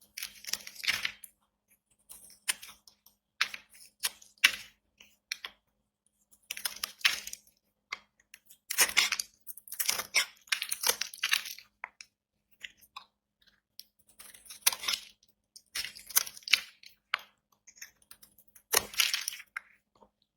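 Dry soap being cut with a knife: a dozen or so short crunching cuts, each up to about a second long, with pauses between.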